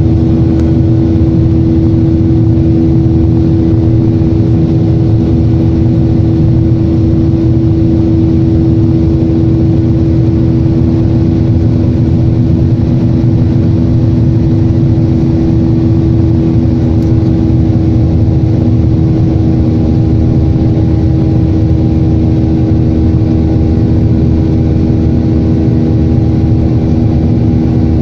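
Airliner jet engines heard from inside the cabin, a steady drone with one clear held tone over a low rumble.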